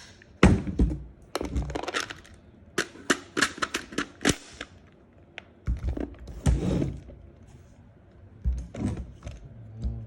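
Century Arms AK pistol and a 75-round drum magazine being handled: bursts of sharp metal clicks and knocks as the drum is fitted into the magazine well, with quiet gaps between.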